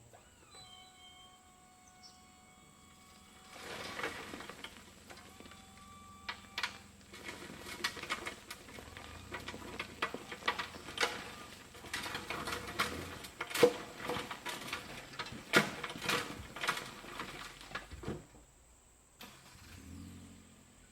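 A small electric motor whines up to a steady tone for a few seconds. Then comes a long run of clattering and knocking, loudest in the middle: the kei truck's dump bed tipping and stone sliding out of it.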